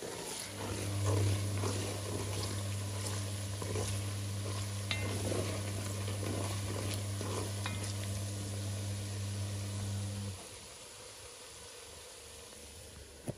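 Chopped onions and tomato sizzling as they fry in oil in a steel pot, with a wooden spoon stirring and knocking against the pot. A steady low hum runs under it from about half a second in and cuts off suddenly about ten seconds in, leaving the frying quieter.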